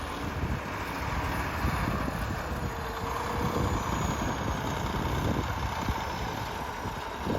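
T-150K tractor's diesel engine running steadily while ploughing.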